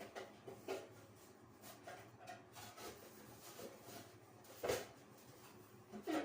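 Scattered light knocks and handling sounds of bathroom cleaning, with one louder knock about three-quarters of the way through and another at the very end.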